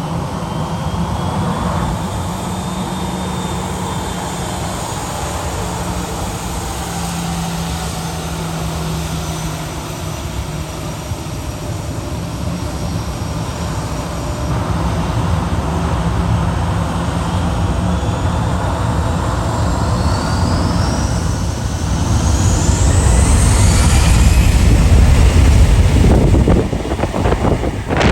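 Airliner engines running at the airport, spooling up with a whine that rises in pitch about three-quarters of the way through, then growing to a loud low rumble near the end.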